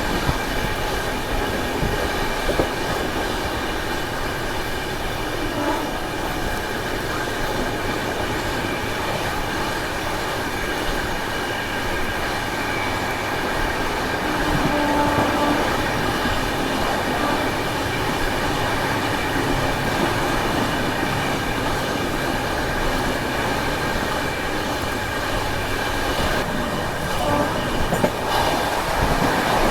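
Passenger express train running on the track: a steady rumble of wheels on rail with a steady high whine over it.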